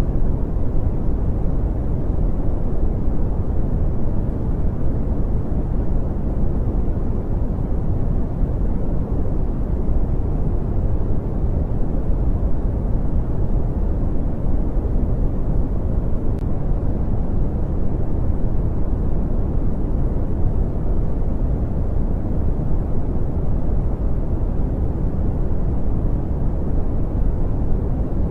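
Brown noise: a steady, deep rushing noise, heavy in the low end and dull in the highs, unchanging throughout.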